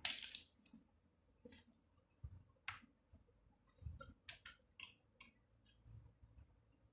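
Scattered faint clicks and taps of small tools and wire being handled during soldering work.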